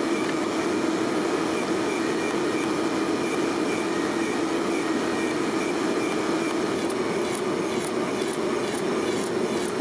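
A workshop machine running steadily, with light ticks repeating about twice a second starting about two-thirds of the way through.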